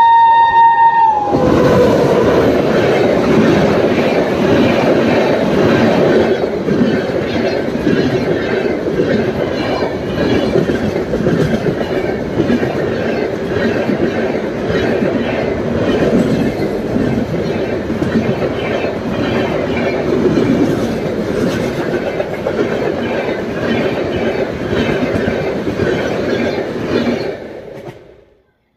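A WAP7 electric locomotive's horn, its pitch falling as it passes and stopping about a second in. Then the coaches of an express train run past at speed with a rhythmic clickety-clack of wheels over rail joints. The sound fades out sharply near the end.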